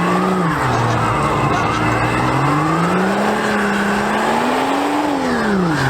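Car engine revving hard, its pitch swinging up and down: it climbs slowly to a high peak, then drops sharply near the end.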